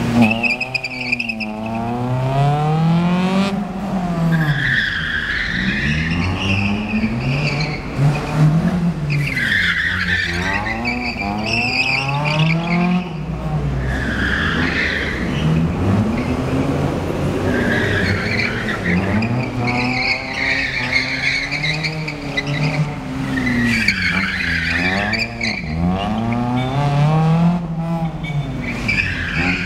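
Honda Civic being driven hard through a gymkhana course: the engine and exhaust rev up and drop back again and again, every two to three seconds, as the throttle goes on and off. Tyres squeal in bursts through the turns.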